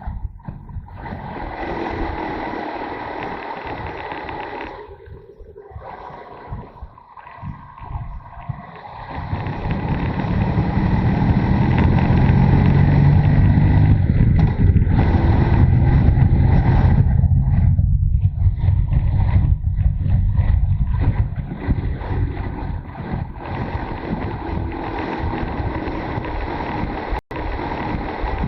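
Motorcycle engine running while riding, with road and wind noise. It grows much louder about a third of the way in, holds for several seconds, then eases off again.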